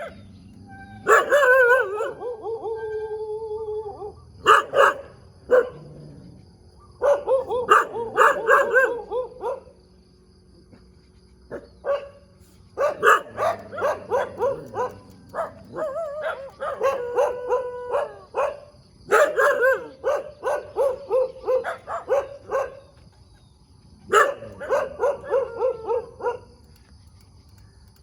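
Dogs barking in repeated rapid bursts of short yelping barks, separated by brief pauses. About a second in there is one long, drawn-out, howling cry.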